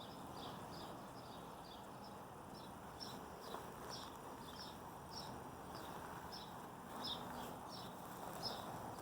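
Birds chirping in a garden: a steady run of short, high, falling chirps, about two or three a second, over a steady background noise.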